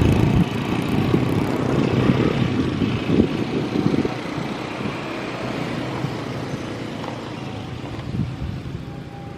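Diesel train passing close by, its rumble fading steadily as it moves away.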